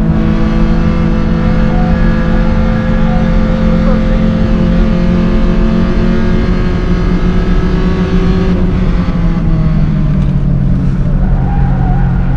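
Engines of three front-wheel-drive track cars, a Hyundai HB20, a naturally aspirated AP 2.0 VW Voyage and a Renault Clio, recorded from inside each car and heard together, pulling hard as several steady engine notes at once. About eight and a half seconds in the notes drop in pitch as the cars come off the throttle.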